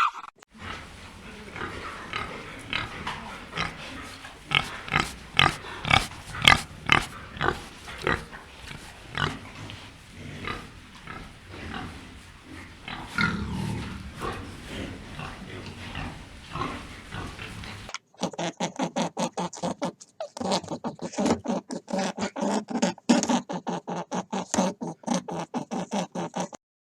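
Domestic pigs grunting, many short grunts in an irregular run. About 18 seconds in, the sound cuts to a different one: a fast, even run of short pitched pulses.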